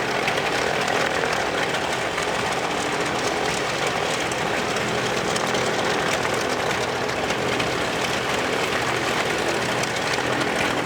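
TBM Avenger's Wright R-2600 radial piston engine idling steadily on the ground.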